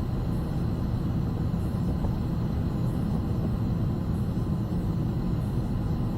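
Steady low rumble of airflow and engines heard inside a Boeing 757 freighter's cockpit on approach, with the landing gear down and flaps extended.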